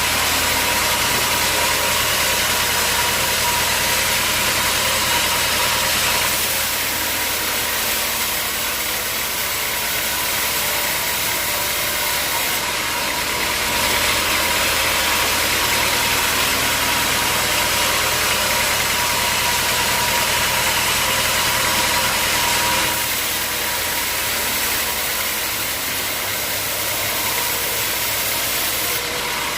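Sawmill saw running steadily through hard acacia logs, a low engine hum under a steady whine and a loud hiss, easing slightly a few times.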